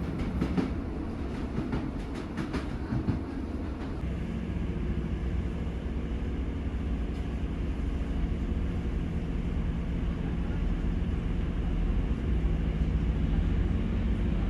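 Class 150 diesel multiple unit under way, heard from inside the carriage: a steady low rumble of the diesel engine and the wheels on the track. A quick run of clicks over the rail comes in the first few seconds.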